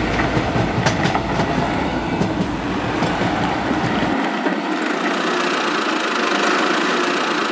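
Train running on rails: a steady rumbling clatter. The deep low end drops out abruptly about four seconds in.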